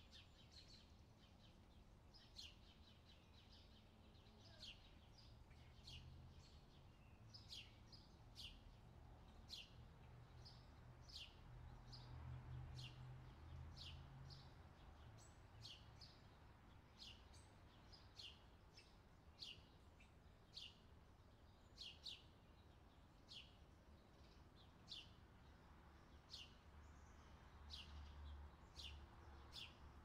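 Faint outdoor ambience of small birds chirping, short high falling chirps coming about once a second, over a low steady rumble.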